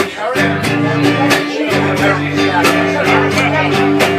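Acoustic guitar strummed in a steady rhythm with ringing chords, playing the instrumental introduction to a folk ballad before the singing begins.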